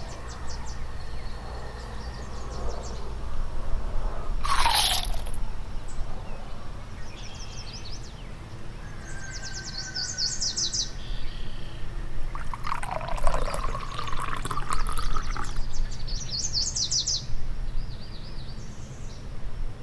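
Birds chirping in short, rapid, high trills that come and go, over a steady low rumble, with a loud downward-sweeping call about four and a half seconds in.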